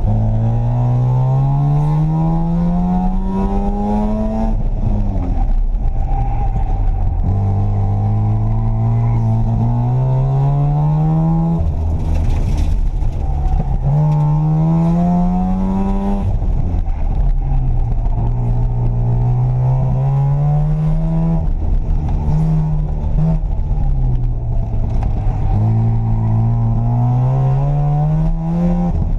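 1982 Mazda RX-7's rotary engine driven hard, its note climbing under acceleration and dropping back at each lift-off or shift, about six times over.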